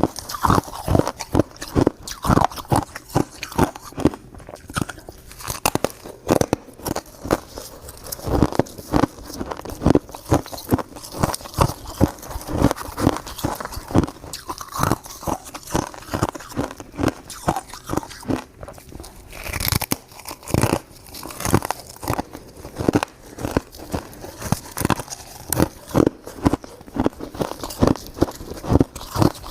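Close-miked chewing of crunchy purple crystal shaved ice: a steady run of crisp crunches, several a second, with one brief hissing burst about two-thirds of the way through.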